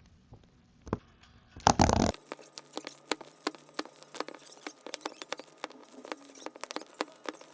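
Diamond-painting drill pen tapping resin drills onto the sticky canvas: quick, irregular clicks, several a second. They follow a short, loud rustle about two seconds in.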